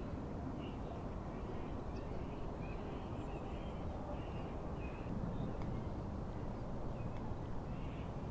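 Birds calling in a string of short repeated notes over a steady rush of wind and lake waves.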